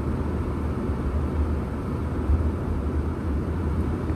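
Strong gusty wind buffeting the microphone during a dust storm: a steady low rumble that surges and eases.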